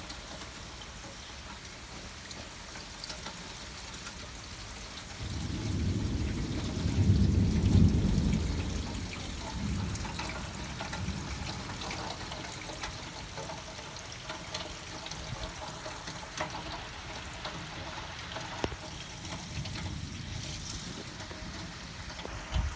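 Steady rain with scattered drip ticks; about five seconds in a low rumble of thunder builds, is loudest a few seconds later, and dies away.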